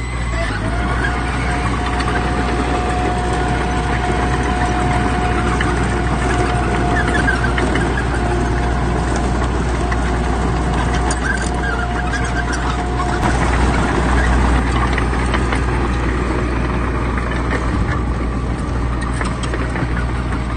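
Heavy diesel earthmoving machinery (bulldozer and dump truck engines) running steadily under load, with a thin steady whine and scattered metallic clanks. About two-thirds of the way through the whine stops and the engine grows louder for a moment.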